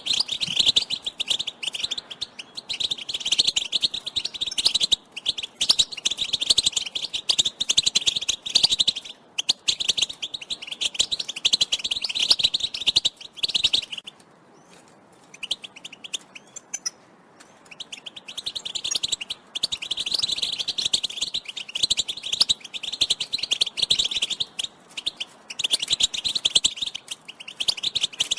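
European goldfinch twittering, a fast, dense run of chattering calls. It fades to a few faint notes for about four seconds halfway through, then resumes.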